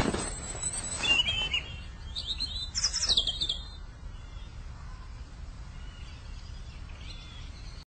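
Small birds chirping outdoors: a few short, quick chirps and trills in the first few seconds, then fainter scattered calls.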